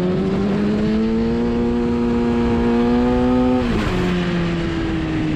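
Motorcycle engine pulling under acceleration, its pitch rising steadily, then dropping sharply about four seconds in as it shifts up a gear. Wind rush runs underneath.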